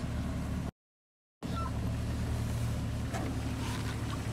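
1994 Jeep Wrangler Sahara's inline-six engine idling steadily, a low even hum. The sound cuts out completely for under a second, about a second in.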